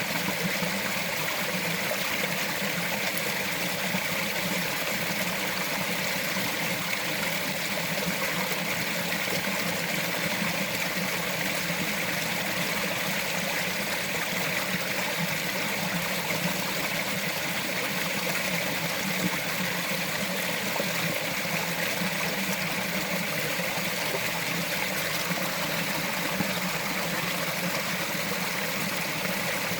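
Small mountain stream flowing and trickling over rocks, a steady even rush of water.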